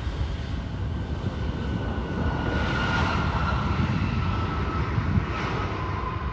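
Aircraft engines of a passing plane: a steady low rumble with a faint whine that slides slowly down in pitch, loudest in the middle.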